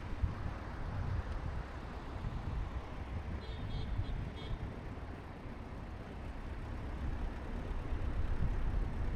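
Low, steady rumble of a motor vehicle running, with a few faint, short high beeps a little before the middle.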